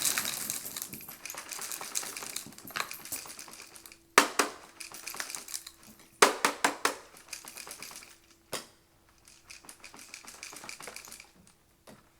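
Small hard debris such as coins and pebbles clattering and rattling against hard surfaces in irregular bursts, with louder clatters about four, six and eight and a half seconds in, dying away near the end.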